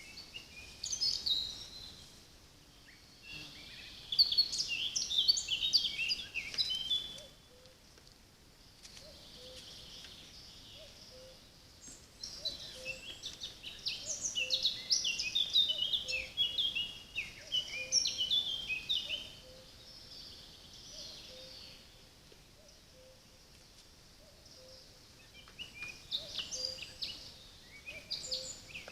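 Songbird singing in bouts of rapid, high twittering phrases separated by pauses. A faint low note repeats about once a second behind it.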